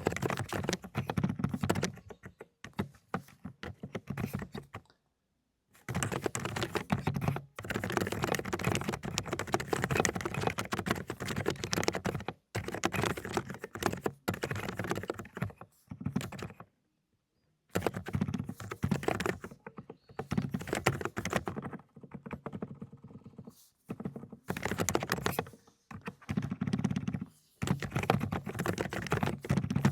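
Fast typing on a mechanical keyboard fitted with silent 'cotton candy' switches. The keystrokes come in dense, rapid runs, broken by two short pauses about five and seventeen seconds in.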